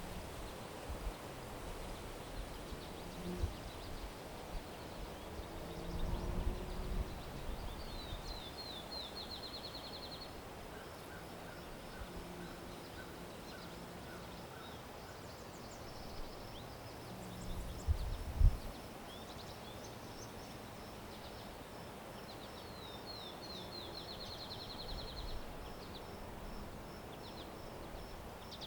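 Outdoor ambience with a songbird singing twice, each phrase a few slurred high notes running into a fast trill, the phrases about fifteen seconds apart, over a steady noisy background. Between the phrases there is a short series of lower chirps and a faint high pulsing call. Low rumbles come about six seconds in and about eighteen seconds in, the loudest being a sharp thump near the second.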